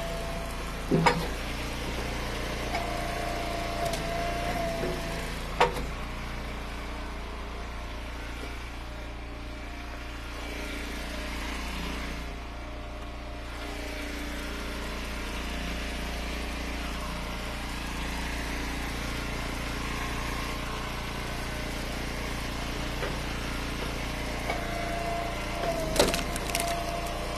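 Hydraulic log splitter running steadily while it splits firewood rounds, with three sharp cracks as the wood gives way: one about a second in, one about six seconds in, and one near the end.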